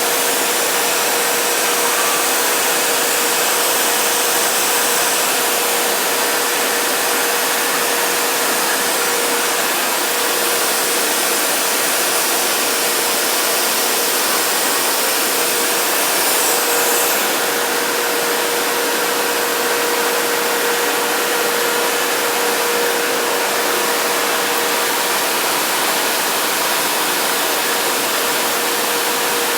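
Steady rushing noise of a waterfall, with a faint steady hum underneath.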